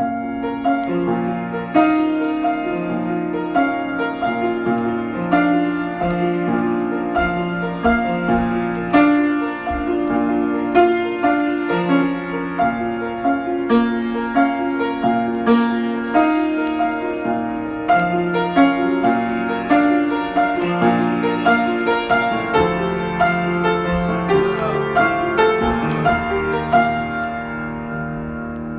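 Solo piano improvisation: a steady flow of struck notes, each ringing and fading, over held lower notes.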